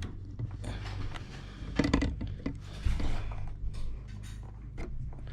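Needle-nose pliers twisting and pulling small bulbs out of the plastic instrument cluster: scattered light clicks and rattles, with a few sharper clicks about two and three seconds in.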